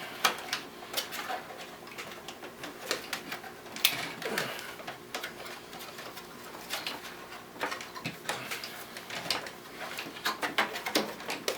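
Irregular plastic and metal clicks and knocks of a drive being worked loose and pulled out of a desktop computer's drive bay.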